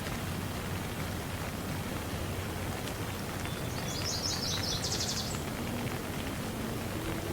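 Steady rain falling. About four seconds in, a bird gives a brief, rapid, high-pitched trill over the rain.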